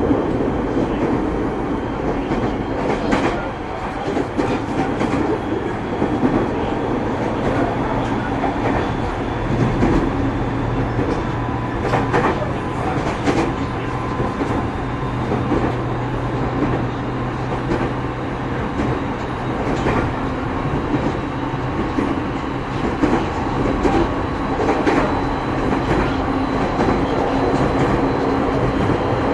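JR 209-series electric train running, heard from inside the motor car: steady running noise with a steady motor tone and occasional sharp clicks from the wheels over the rails.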